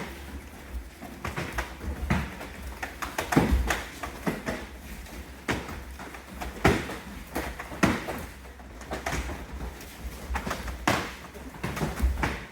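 Irregular thuds and slaps of several karate practitioners training: feet striking and stepping on the dojo floor during kicking drills.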